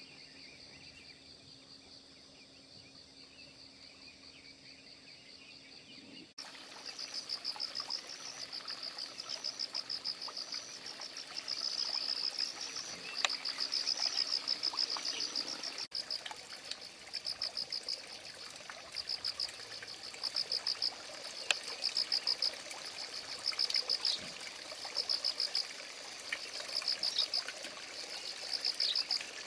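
Insects chirping in repeated high-pitched pulsed trills, several bursts every few seconds. They start abruptly about six seconds in, after a quieter stretch with a faint steady hum.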